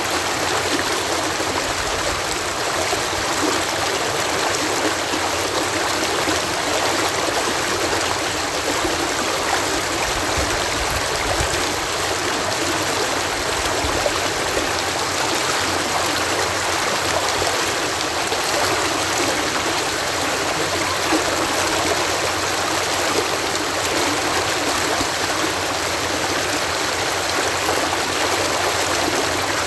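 Water pouring over a canal lock in a steady cascade, a constant rushing splash without letup.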